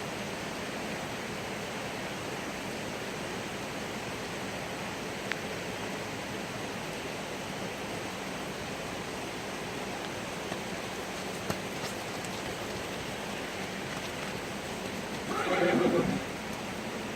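Steady hiss of rain, with a horse whinnying once, briefly, near the end.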